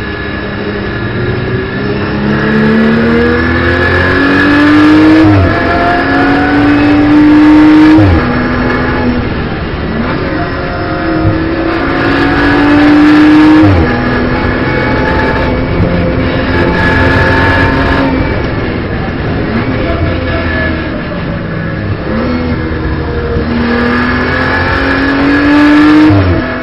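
Onboard sound of a BMW M240i Racing Cup car's turbocharged straight-six engine under hard acceleration. The pitch climbs through each gear and drops sharply at each shift, several times over, with easier stretches between.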